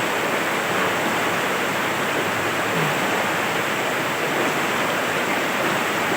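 Rain falling steadily: a dense, even hiss with no breaks.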